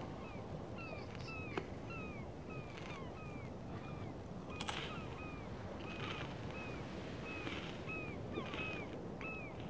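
A bird calling over and over in short, falling chirps, about two a second, over a steady outdoor rush of noise. A soft crackle is heard about halfway through.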